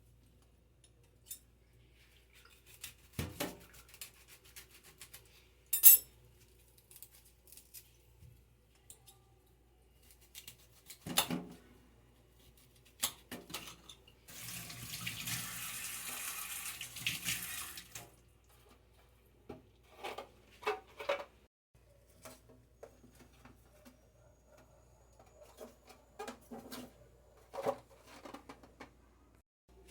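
Kitchen tap running for about four seconds midway, among scattered knocks and clinks of containers and dishes being handled. A single sharp click about six seconds in is the loudest sound.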